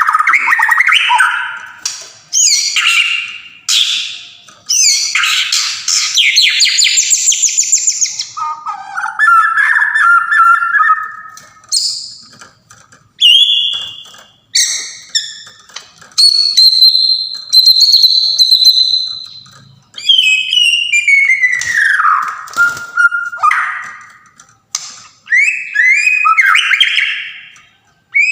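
White-rumped shama (Sumatran murai batu) singing a long, varied song: loud whistled phrases, sliding notes and harsh rasping passages, broken by short pauses.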